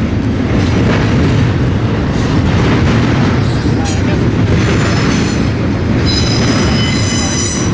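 Freight train cars rolling past on the rails with a steady low rumble, joined about four seconds in by a high-pitched wheel squeal.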